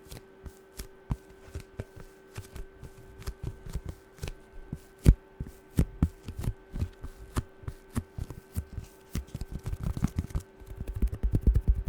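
Fingernails tapping quickly on hard objects in irregular sharp taps, breaking into a fast, dense flurry of taps near the end. A faint steady hum runs underneath.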